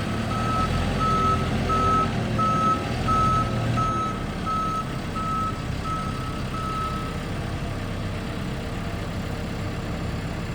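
Reversing alarm of a Cat TL1055 telehandler beeping at an even rate, about one and a half beeps a second, over its engine running: the machine is backing up. The beeping stops about two-thirds of the way through while the engine keeps running.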